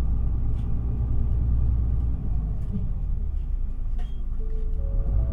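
Interior of an Isuzu Erga city bus under way: a steady low rumble of engine and road noise. A click comes about four seconds in, followed by three short tones stepping up in pitch near the end.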